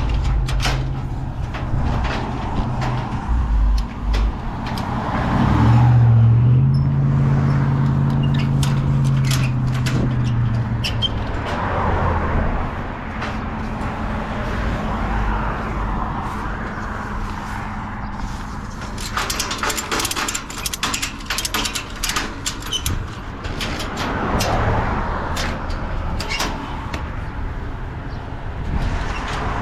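Semi-truck's diesel engine running, speeding up about five seconds in and easing off again about eleven seconds in, with a run of sharp clicks and rattles about twenty seconds in.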